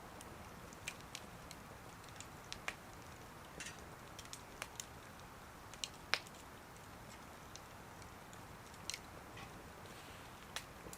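Wood fire crackling in a small wood stove: irregular sharp pops and snaps over a faint steady hiss, the loudest pop about six seconds in.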